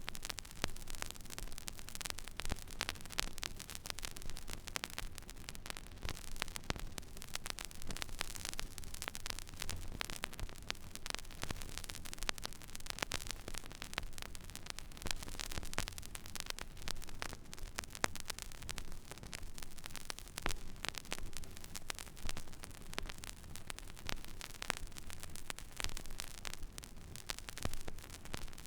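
Stylus riding the empty groove of a vinyl record: steady surface hiss with dense, irregular crackle and pops, over a faint low hum.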